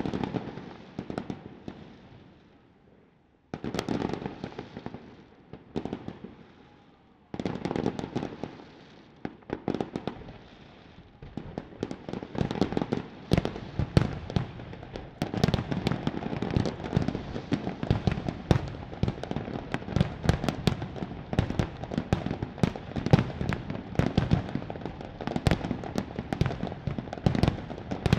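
Fireworks display: aerial shells bursting with booming reports and echoing rumble, in separate clusters at first, then from about eleven seconds in a dense, rapid barrage of bangs and crackles, typical of a finale.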